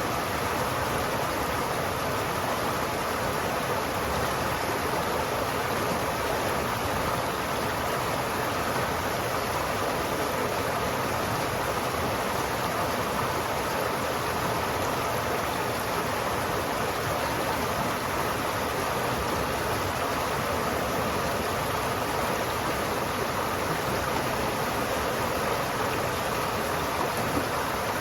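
River water flowing steadily over rocks, an even rushing with no change in level.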